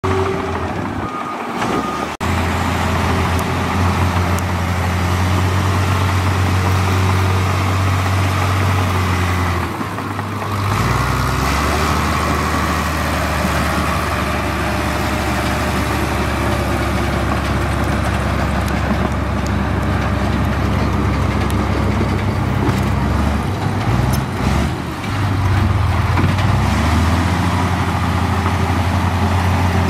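Heavy earthmoving equipment's diesel engines running steadily at a low pitch. The engine note changes abruptly three times.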